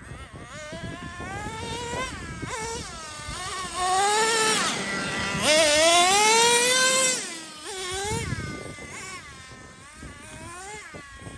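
Traxxas Revo 3.3 RC truck's two-stroke nitro engine revving up and down as it is driven, in repeated throttle bursts, the longest, highest and loudest about halfway through. Wind buffets the microphone.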